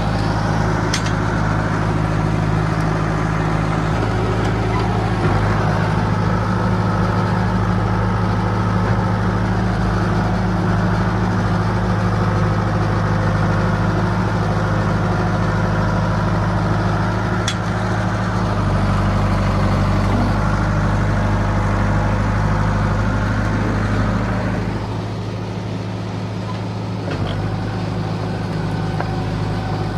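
John Deere 450B crawler bulldozer's engine running steadily as the machine works, easing back in level a few seconds before the end, then picking up slightly.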